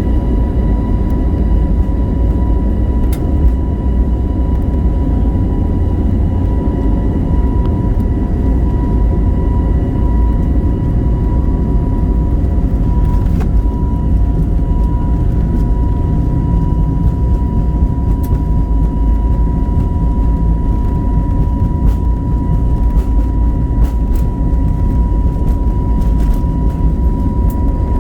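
Steady rumble of an Airbus A321neo's CFM LEAP-1A jet engines heard inside the passenger cabin, with a steady high tone over it and a few faint clicks.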